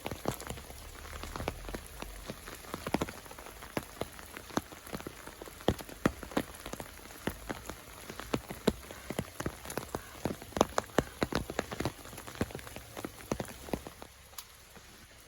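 Rain falling, with big drops striking close by in irregular sharp ticks over a soft hiss. The ticks stop near the end.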